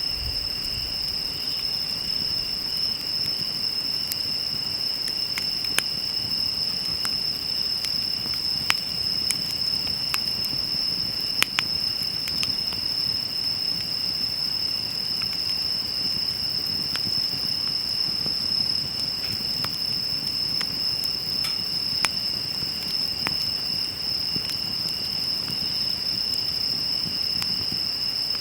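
Steady high-pitched chirring of insects, unbroken throughout, with a wood fire crackling underneath and giving a dozen or so scattered sharp pops, the loudest about 11 seconds in.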